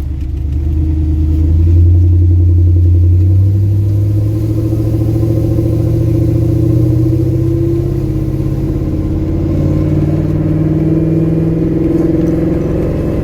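Swapped 5.3 LS V8 running through a single-pipe exhaust with a Magnaflow muffler as the truck drives off, its note climbing slowly as it pulls through a gear. The owner says the exhaust still has header leaks at the stock manifold gaskets.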